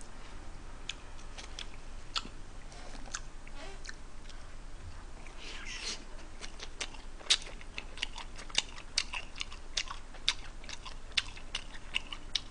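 Close-miked chewing of a mouthful of bulgogi pizza. A soft bite comes about six seconds in, then a run of sharp mouth clicks, several a second.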